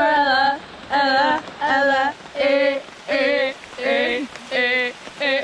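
A woman's voice singing a run of short, repeated, wavering notes, about one every three-quarters of a second, over steady rain hiss.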